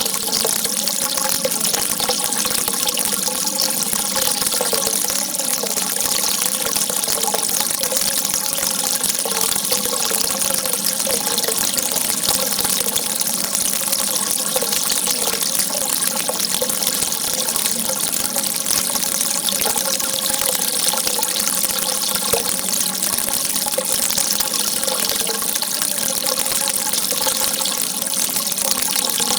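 A jet of water gushing steadily, a constant rushing hiss with no breaks or changes in level.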